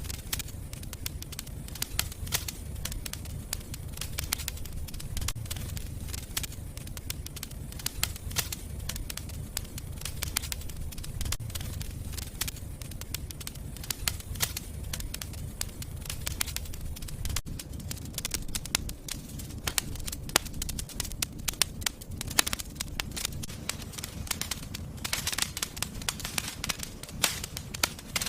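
Wood fire burning in a fireplace: frequent sharp crackles and pops over a steady low rumble of the flames, with a few louder pops near the end.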